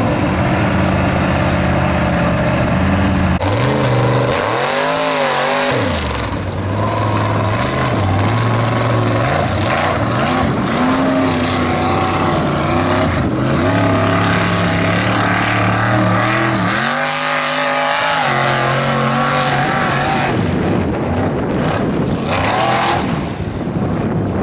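Square-body Chevy mega truck's engine revving hard under full throttle, its pitch swinging up and down several times, over a steady rushing noise.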